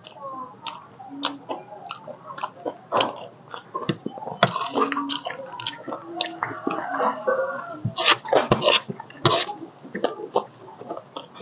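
Close-miked chewing and crunching of chatpate, a crisp puffed-rice snack mix, with a metal spoon scraping and clinking on a ceramic plate. Several sharp, loud clicks come in a cluster about eight to nine seconds in.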